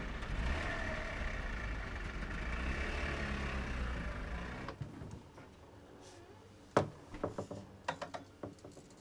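Small hatchback car's engine idling steadily, cutting off abruptly about halfway through. Then a sharp click of a refrigerator door opening, followed by a quick run of lighter clicks and knocks as items inside the fridge are handled.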